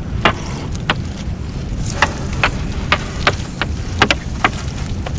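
Steady low rumble aboard a small fishing boat, with about a dozen irregular sharp clicks and knocks as blue swimming crabs are picked out of a gill net.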